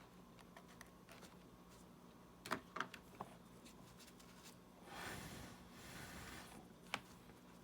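Small-parts repair handling on a smartwatch: a few small clicks, a scraping rub lasting about two seconds, then one sharp click near the end.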